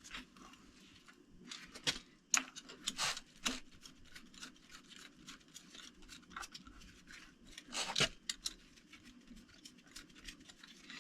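Small metal clicks, taps and scrapes of hand tools and bolts being fitted on a Toyota 4A-GE engine, irregular, with a few louder knocks about two, three and eight seconds in.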